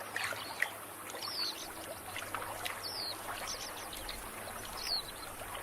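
Water sloshing and trickling, with a bird giving a short descending call three times.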